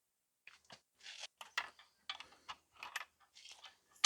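Irregular metallic clinks and taps of bolts and hand tools being handled while engine bolts are fitted.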